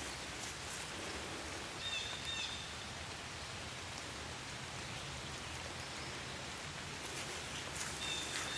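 Steady soft outdoor hiss with scattered faint ticks, and a short high chirp twice: about two seconds in and near the end.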